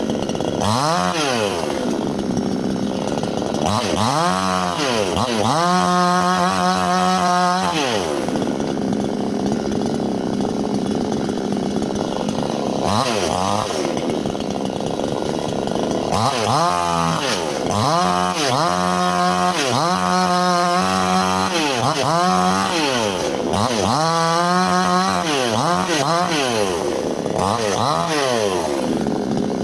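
Chainsaw cutting wood, its two-stroke engine revving up to full throttle and falling back again and again as the chain bites in and is eased off.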